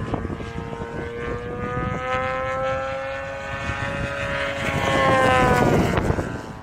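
DA70 twin-cylinder petrol engine of a large aerobatic RC plane running in flight, its propeller pitch slowly rising and then dropping about six seconds in as it grows loudest. Wind noise on the microphone underneath.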